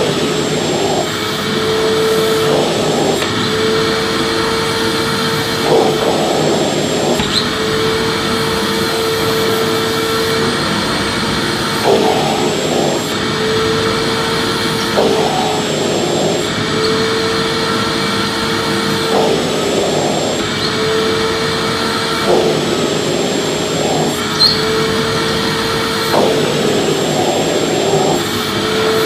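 Vacuum cleaner running steadily. Its motor hum and rushing air are broken every few seconds by a brief, rougher change in the sound.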